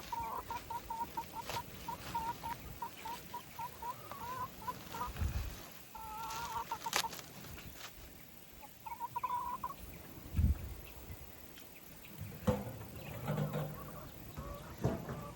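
Hen clucking: a run of short, even clucks, about three a second, then a few longer calls. A couple of dull low thumps come in between.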